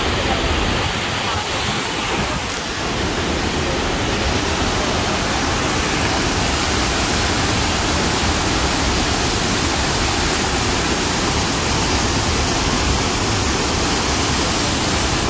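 Water of the Cascata delle Marmore waterfall pouring down: a loud, steady rush of falling water.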